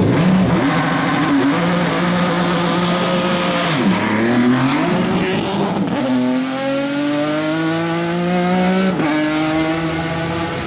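Hill-climb race car accelerating hard away from the start. The engine climbs in pitch through each gear, with a sharp drop at each of three upshifts.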